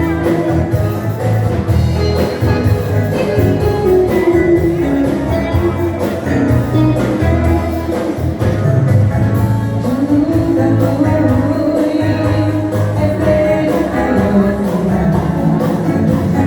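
Forró dance-band music playing loud and steady, with a strong bass pulse and a melody line.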